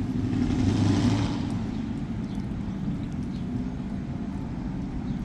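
Steady low hum of an idling car engine, with a brief rush of hiss in the first second or so that fades.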